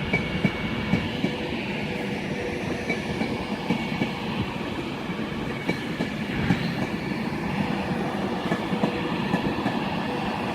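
Class 390 Pendolino electric train running slowly along the platform, a steady rolling noise with scattered light clicks of wheels over rail joints.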